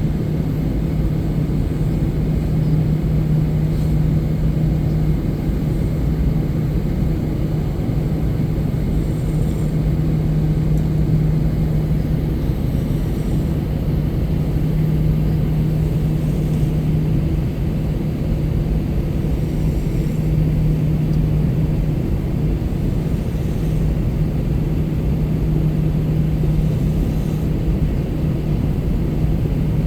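Steady drone of an Airbus A321-200 heard from inside the passenger cabin, engine and airflow noise with a constant low hum running through it.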